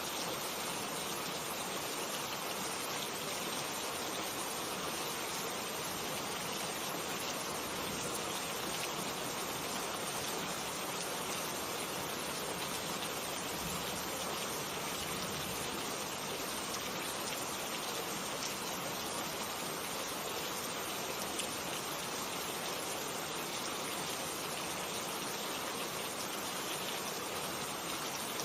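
Steady heavy rain falling, an even, unbroken hiss of many drops with no thunder.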